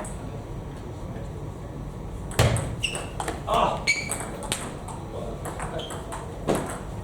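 Table tennis ball clicking off bats and table in a rally, several sharp hits with the loudest about two and a half seconds in, with short shoe squeaks on the hall floor and voices chattering in the large hall.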